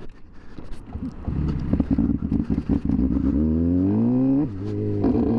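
A stalled motorcycle engine catching on a bump start about a second in, running unevenly at first. It then revs up with rising pitch for about a second, drops back sharply and settles into a steady run.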